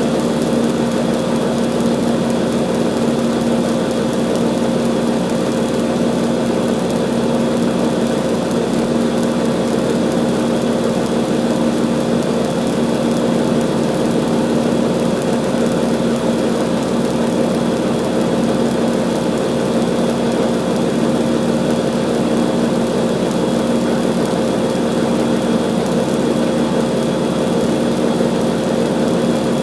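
1988 Rheem 4-ton central air conditioner's outdoor condensing unit running steadily: the compressor hums under the rush of the condenser fan, with no change throughout.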